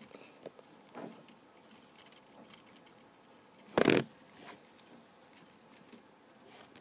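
Faint plastic clicks of the Lego Technic bucket truck's knob and gears being turned to raise the boom, with one short, loud thump near the middle.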